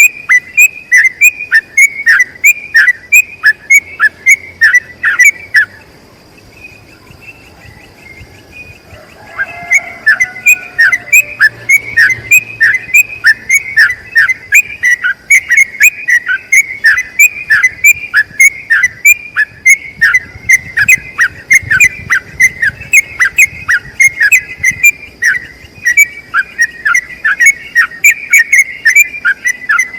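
Yellow-vented bulbul singing a long rapid run of short, whistled, down-slurred notes, two or three a second. The song breaks off for about four seconds early on, then resumes and keeps going without a break; a faint steady high whine runs beneath.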